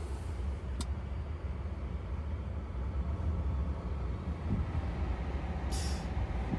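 Steady low road and tyre rumble inside the cabin of a Tesla Model 3 while it drives, with no engine sound, a single click about a second in and a short hiss near the end.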